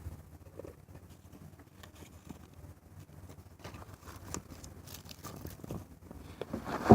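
Small wood campfire crackling, with scattered small pops and ticks that come thicker in the second half. A sudden louder clatter comes right at the end.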